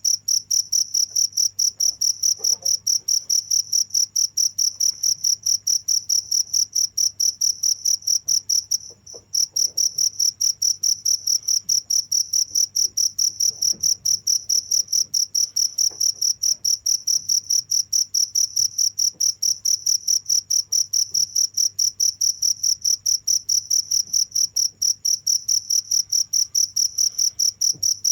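Cricket chirping steadily in rapid, evenly spaced high-pitched chirps, with one brief break about nine seconds in.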